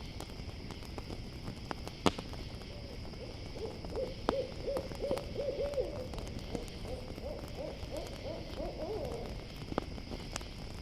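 An owl hooting in two quick runs of short, evenly spaced notes, starting about three seconds in, over a crackling campfire with a sharp pop about two seconds in and a steady background of crickets.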